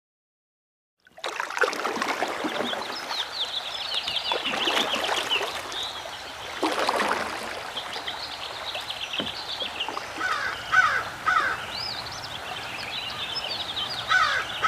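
Recorded nature ambience: small birds chirping and twittering over a steady rush like running water, starting about a second in.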